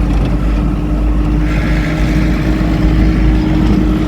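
A car driving along a road: steady engine and road noise with a constant hum. The hiss gets louder about a second and a half in.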